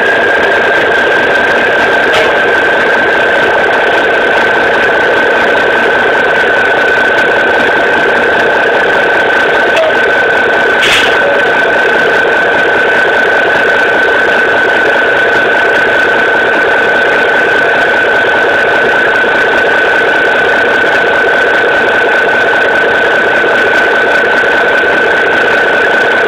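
Cummins N14 diesel engine of a Ford L9000 truck running at a steady speed, its turbocharger whistling in one high, steady tone over the engine noise.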